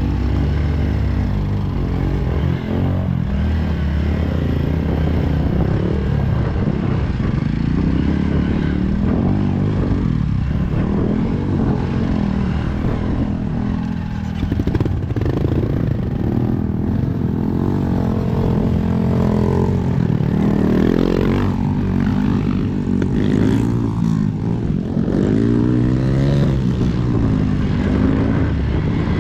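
A vehicle engine running under load, its revs rising and falling over and over as it is driven over rough off-road ground.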